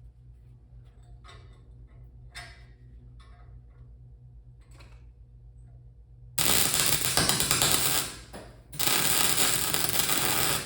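Low steady hum with a few small clicks and taps, then two bursts of welding-arc crackle about a second and a half and two seconds long, welding a cast fire poker onto a stainless steel spoon; the two different alloys change the sound of the weld.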